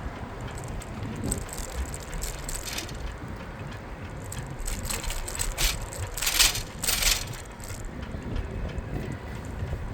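A bicycle being ridden, rattling and clicking over the road surface above a steady low rumble, with two louder rattling bursts a little past the middle.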